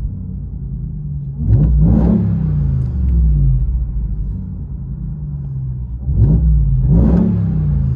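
Straight-piped 2021 Ram TRX's supercharged 6.2-litre V8, muffler and resonators deleted, idling with a deep rumble and revved twice, the pitch shooting up and falling back to idle each time, heard from inside the cab.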